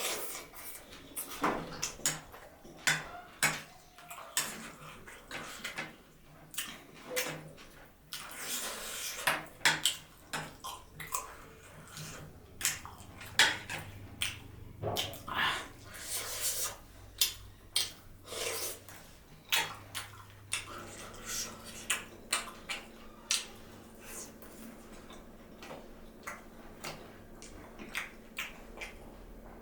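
A person eating close to the microphone: irregular wet chewing clicks and smacks, many per second at times, with the odd clink of dishes.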